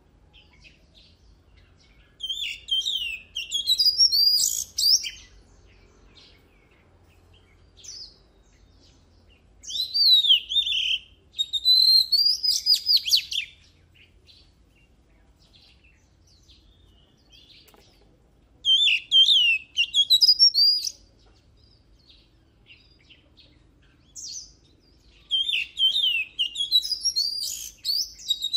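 Oriental magpie-robin singing: four bouts of rapid, high whistled and warbling phrases, each a few seconds long, with quiet pauses of several seconds between them.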